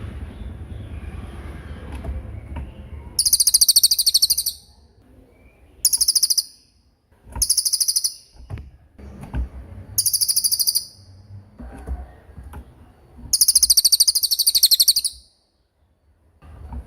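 A songbird singing five bursts of very rapid, high-pitched trills, the longest near the end, with a low rumbling background noise in the opening seconds and between the bursts.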